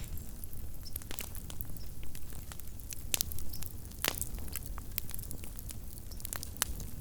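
Small wood campfire crackling, with irregular sharp pops and snaps, the loudest a little after four seconds, over a low steady rumble.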